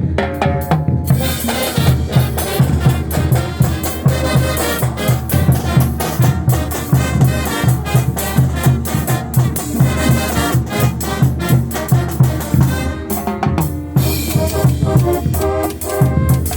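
Band music with brass and drums, playing steadily with a regular beat.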